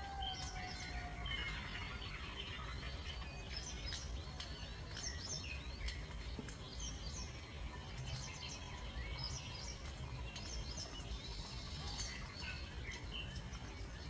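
Birds chirping: many short, high chirps scattered through, over a steady low rumble. Near the start there is one lower note that falls in pitch.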